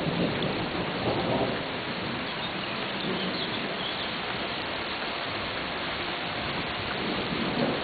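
Steady rain falling during a thunderstorm, an even, unbroken rush with no single loud crack.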